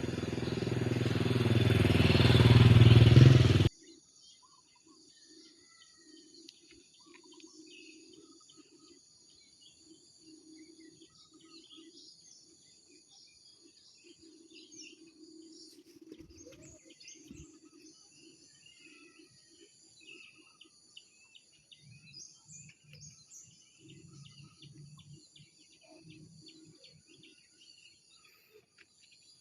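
A loud rush of noise swells over the first few seconds and cuts off abruptly. Then comes faint outdoor ambience: steady high insect trilling, scattered bird chirps, and a low pulsing sound.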